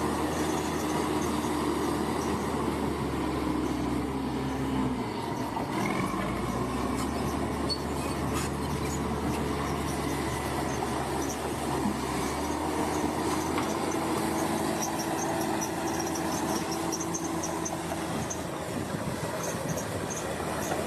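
Heavy earthmoving machine's diesel engine running steadily, its pitch dipping and recovering about five seconds in.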